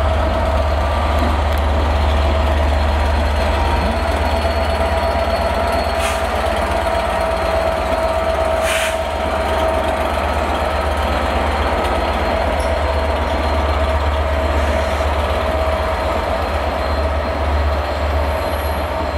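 Diesel-hauled passenger train, a Class 67 locomotive with Mk4 coaches and a driving van trailer, running slowly along the platform. A steady low diesel rumble runs under a constant hum and wheel-on-rail noise, with two brief clicks about 6 and 9 seconds in.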